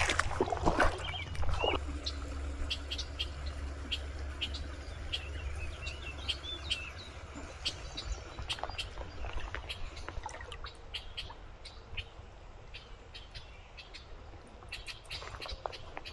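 Small birds chirping, with many short, high calls scattered throughout. A low rumble sits under the first half and fades out.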